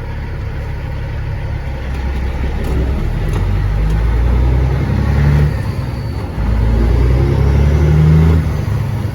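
Caterpillar 3406E inline-six diesel in a Freightliner FLD120 semi truck pulling under load, heard from the cab, growing louder; it drops off briefly about five and a half seconds in, as for a gear change, then pulls hard again.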